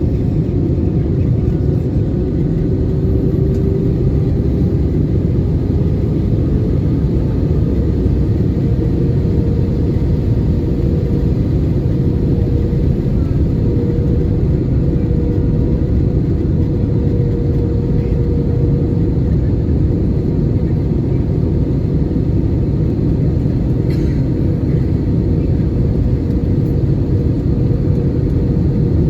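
Steady cabin noise of an Airbus A320-200: engine and air noise that holds level throughout, with a faint steady hum over it.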